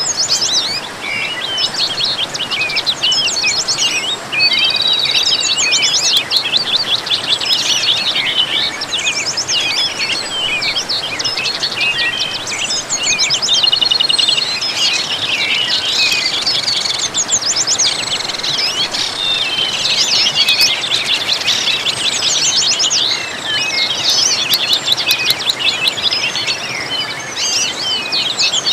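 A dense chorus of many songbirds chirping, trilling and singing over one another without pause, above a steady background hiss.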